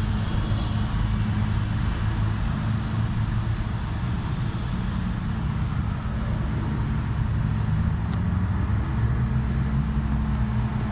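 Steady low rumbling background noise, of the kind road traffic makes, with no distinct events.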